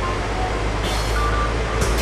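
Large-scale garden model train running on track: a steady rumble with brief thin squeals, and clicks near the end.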